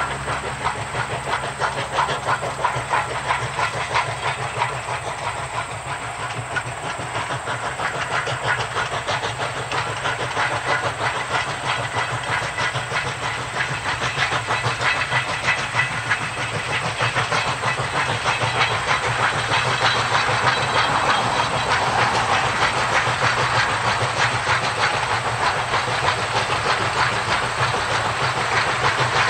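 Narrow-gauge diesel-hauled train running along the track: the wheels clatter and hiss on the rails over a steady low drone, growing somewhat louder about halfway through.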